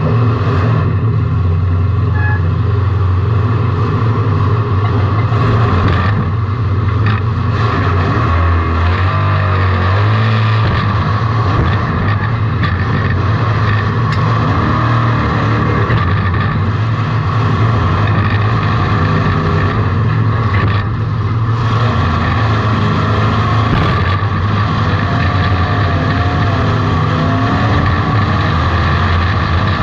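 Race car engine running hard, heard from inside the car, with a steady low drone whose note dips briefly a few times.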